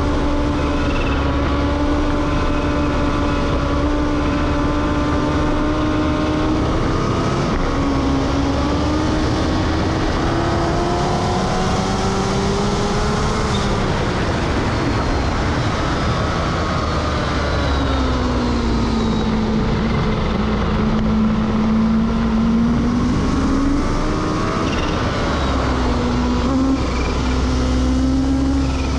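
Kawasaki Ninja H2's supercharged inline-four engine at speed round a race track, its pitch climbing under acceleration and falling under braking into corners, over heavy wind noise on the microphone.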